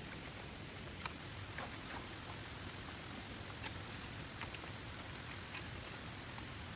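Steady rain hiss with scattered single drops tapping at irregular moments, one sharper tap about a second in.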